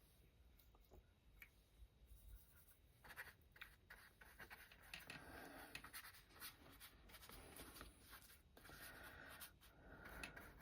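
Faint scratchy strokes of a paintbrush working thick watercolour paint onto paper, starting about three seconds in and going on in irregular strokes.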